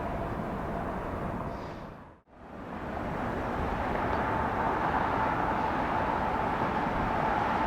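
Jet airliner engines running, a steady rumble with a high whine. The sound fades out completely about two seconds in and fades back up, louder and with a steadier whine.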